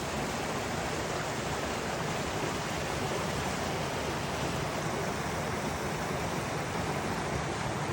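Flowing water rushing steadily, like a stream running under the bridge.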